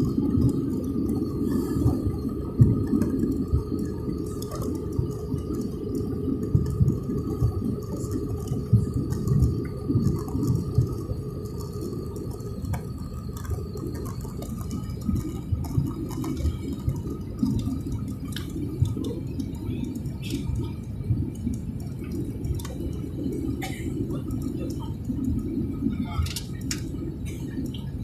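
Airliner noise during a landing: a steady low rumble with a faint constant whine, slowly growing quieter.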